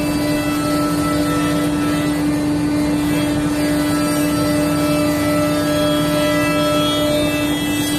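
CNC router running: a steady machine hum with one strong constant tone and fainter tones that come and go.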